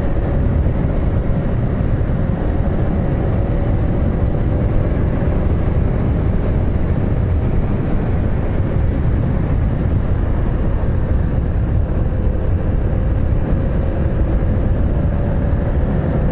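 Steady low rumble of a vehicle running, with a faint droning tone that drifts slightly in pitch.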